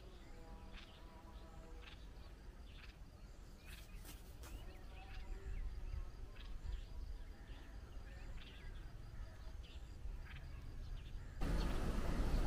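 Birds chirping in short calls, about one a second, over low outdoor background rumble. Near the end a louder rushing noise sets in suddenly.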